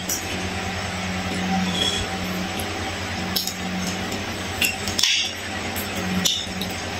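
Close-up eating sounds: a man chewing mouthfuls of fried fish, with a few short sharp mouth clicks and smacks, over a steady low hum.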